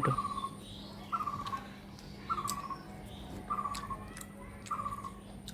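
A bird calling: a short, slightly falling note repeated at an even pace about every second and a bit, five times, with a few faint clicks between.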